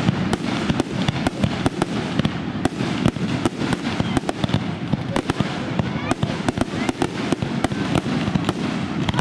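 Aerial fireworks going off in a rapid barrage: many sharp bangs and crackles a second over a continuous rumble of bursts.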